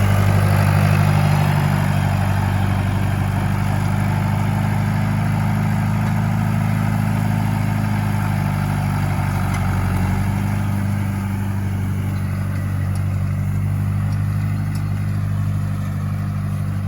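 John Deere 2040S tractor's diesel engine running steadily under load while raking hay, easing slightly quieter in the second half.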